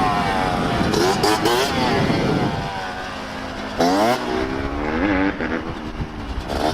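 Dirt bike engines revving, the pitch falling and then climbing sharply again about four seconds in.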